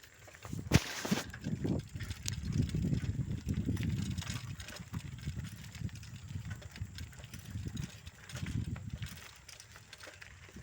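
Bicycle being ridden along a road: an uneven low rumble of riding noise, with a sharp knock about a second in.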